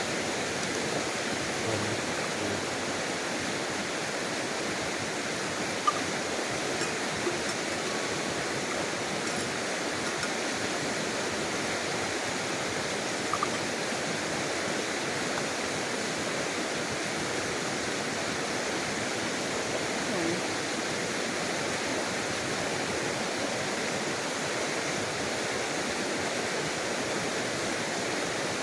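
A small clear-water stream flowing with a steady rushing sound. A few faint ticks occur over it, the sharpest about six seconds in.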